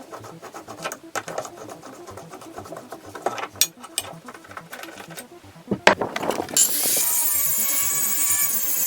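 Ratchet spanner clicking and metal tools knocking as the lawn mower's blade bolt is undone. About six and a half seconds in, loud background music starts and covers the rest.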